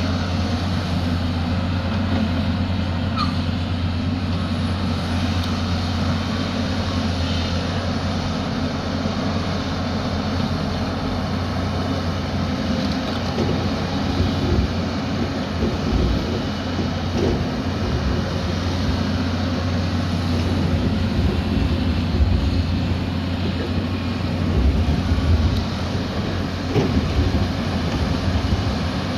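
Diesel engine of a heavy earthmoving machine running steadily under load with a deep, constant hum, with a few brief louder surges in the second half.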